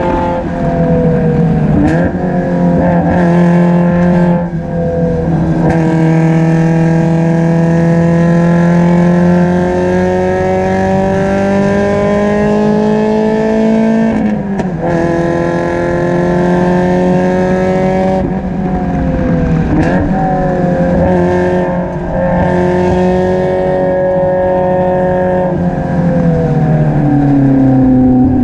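Spec Miata's four-cylinder engine running hard on track, heard from just above the exhaust. It climbs steadily in pitch through long pulls, with a sharp drop at an upshift about halfway through and a cluster of quick drops and blips later on as it downshifts. The owner says this engine still misfires and is down on power.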